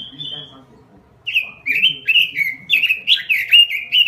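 Pekin robin (red-billed leiothrix) singing: a short whistled note, then from about a second in a loud, fast run of rich warbling phrases, each note sliding down and back up.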